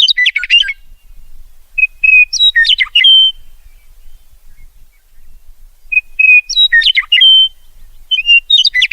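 A songbird singing: short phrases, each a held note followed by a quick run of varied chirps, repeated about every three seconds.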